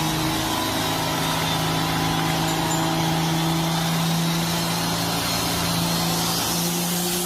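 A steady vehicle engine hum over hissing road and traffic noise, its pitch rising slightly near the end.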